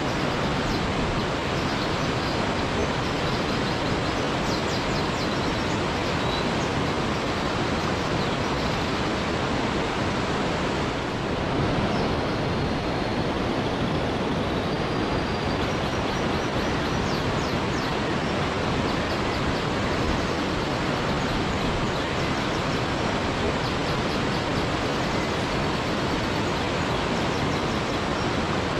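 Waterfall rushing steadily, a constant even roar of falling water, with faint high chirps now and then above it.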